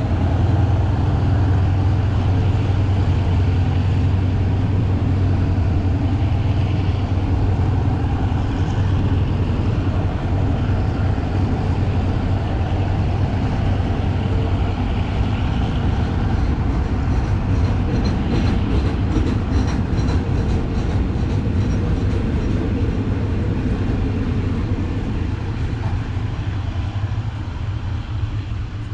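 Container flat wagons of a freight train rolling past on the rails: a steady, loud rumble of wheels on track, with a run of quick, regular clicks about two-thirds of the way through. The sound eases off slightly near the end as the last wagons pull away.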